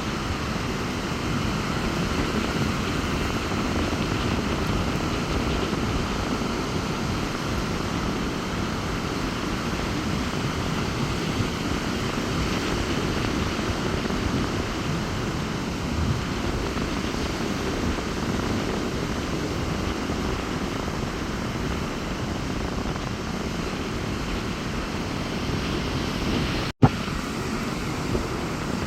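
Rough sea surf breaking steadily on a sandy beach in strong wind, with wind rumbling on the microphone. Near the end the sound drops out for an instant with a sharp click.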